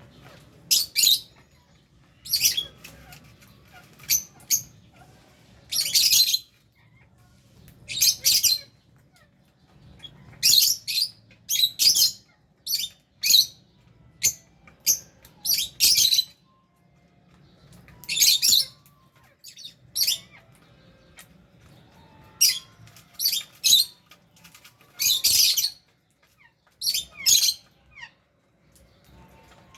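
A flock of lovebirds and budgerigars giving short, shrill squawks and chirps, often in quick pairs, at irregular intervals.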